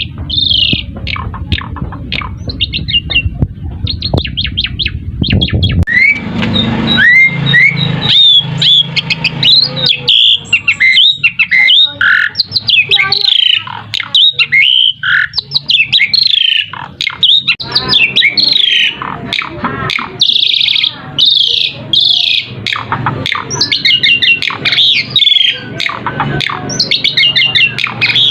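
Asian pied starling song: a fast, continuous run of varied whistles, chirps and harsh squawks. A low rumbling noise runs underneath for the first six seconds and cuts off suddenly.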